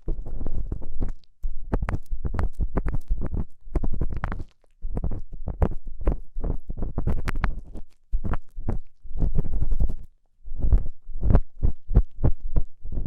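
Ear-cleaning tool scraping and rubbing inside a binaural microphone's ear: rapid runs of crackly scratches with deep rumbling contact noise, broken by a few short pauses.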